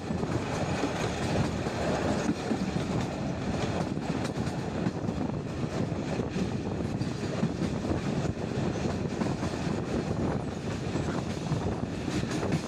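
Passenger train running along the track, heard from a coach window: a steady rolling noise of wheels on rails.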